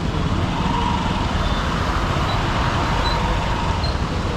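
Honda SP125's single-cylinder engine running steadily under a rider, with road and wind noise and the hum of surrounding city traffic picked up from the helmet.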